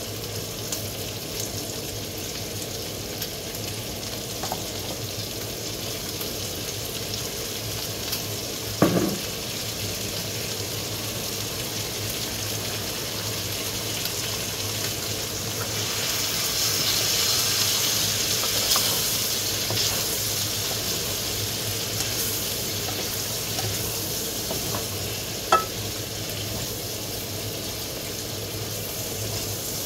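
Vegetables and meat sizzling steadily in a hot wok as they are stir-fried. The sizzle swells for a few seconds in the middle. Two sharp knocks, one about a third of the way in and one near the end, are most likely spatula or bottle against the pan.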